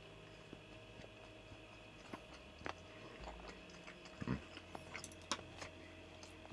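A person eating sausage and eggs: faint chewing with scattered small clicks, a few a little louder in the second half, over a faint steady background tone.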